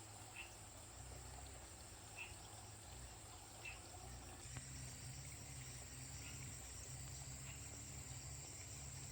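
Faint insect chorus: a steady high drone with a short chirp about every second and a half, over a low rumble.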